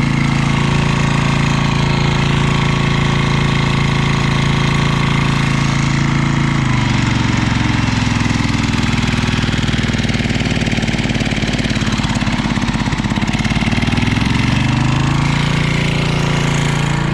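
Small 1700-watt portable generator engine running steadily. About seven seconds in its pitch drops and it labours under the load of a vacuum cleaner run off it, a struggle for it, then picks back up near the end as the load comes off.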